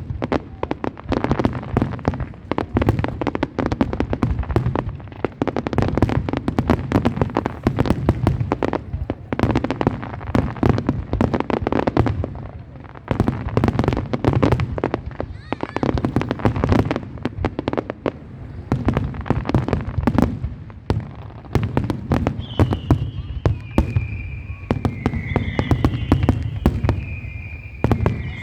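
Fireworks display: a dense, continuous barrage of bangs and crackles over a low rumble. In the last few seconds, high wavering whistles rise above it.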